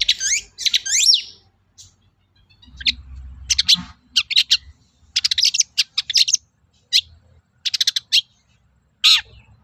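Long-tailed shrike (cendet) singing: spurts of short, high chirps and quick rattling trills, broken by short pauses.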